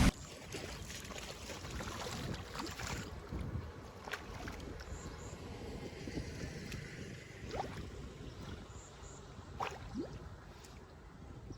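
Water gently gurgling and trickling, with a few small plinks and splashes over a low rumble.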